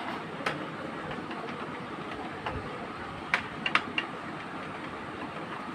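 Sharp clicks and taps of tools and plastic printer parts being handled during disassembly of an Epson L130 inkjet printer, one about half a second in and a quick cluster of four a little past the middle, over a steady background hiss.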